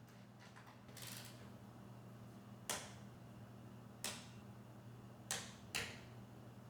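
Four short, sharp clicks of tools and parts being handled in wordless repair work on a mower, over a faint steady low hum.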